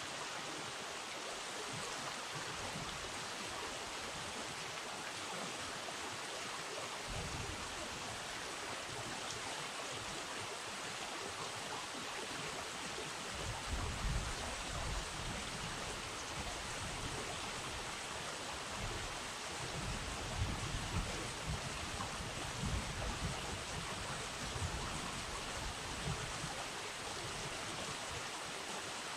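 Steady rush of flowing river water, with irregular low rumbles now and then in the second half.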